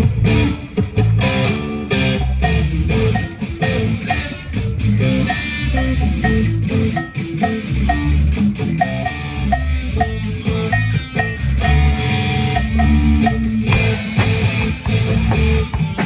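Live band playing: electric guitar over bass guitar and drum kit, with a steady beat.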